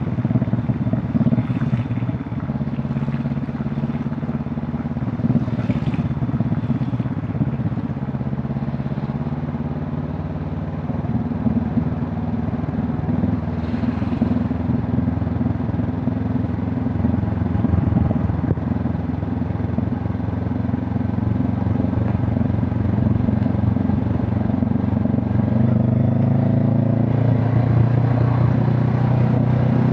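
Honda CB500 Hornet's parallel-twin engine and exhaust running under way, the revs shifting as it rides. It builds louder and higher in pitch near the end.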